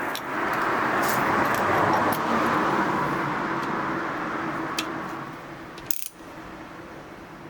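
Moto Guzzi V7's air-cooled V-twin engine running after a tappet adjustment. It grows louder over the first couple of seconds, then eases off, and cuts to a quieter steady run about six seconds in, with a few light clicks.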